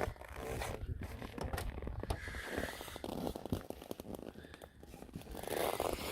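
Irregular scraping, crinkling and crunching handling noises made of many small clicks, growing louder near the end.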